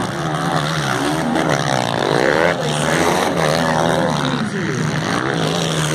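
Several motocross bike engines revving up and down at once, their overlapping pitches rising and falling.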